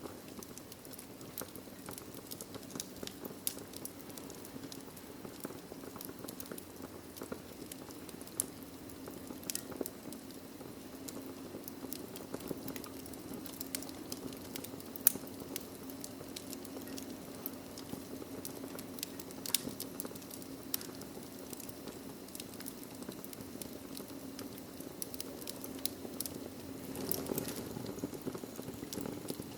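Wood fire crackling in a fireplace: frequent sharp, irregular pops and snaps over a steady low rumble of the flames, with the sharpest pop about halfway through.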